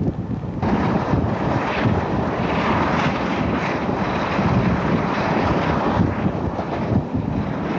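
Rushing wind buffeting a microphone held out of the window of a moving train hauled by a British Rail Class 47 diesel locomotive, over the steady rumble of the train running on the track. The rush turns brighter and louder about half a second in.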